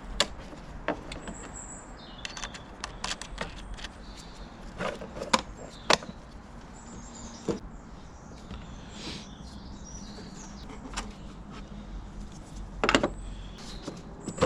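Scattered metallic clicks and clinks of a hand tool working a 10mm nut on the battery's positive cable at the fuse box, irregular rather than a steady ratchet rhythm, with a few louder knocks about five and six seconds in and again near the end.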